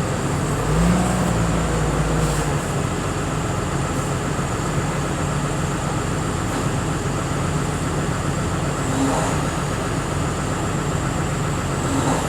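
Truck engine running steadily, with a short rise in engine pitch and level about a second in.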